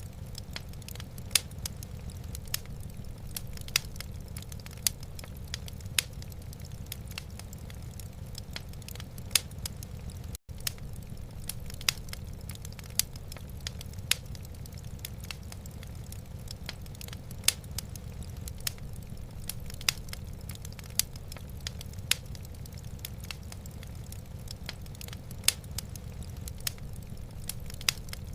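Wood fire crackling in a fireplace: irregular sharp pops and snaps over a steady low rumble, with a momentary break in the sound about ten seconds in.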